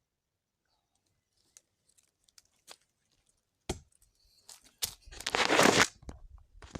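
Scattered clicks and crackles, then a loud rustling, tearing noise lasting about a second, about five seconds in, and a shorter rustle near the end.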